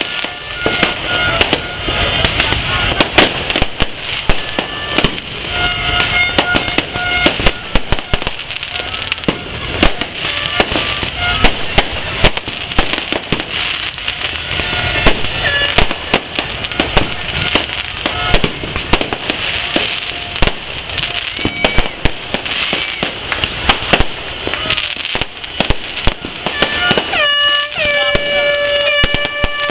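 Many fireworks going off overhead in quick succession: sharp bangs and crackling over a continuous rumble. Held steady tones sound through it, with a louder held tone starting about 27 seconds in.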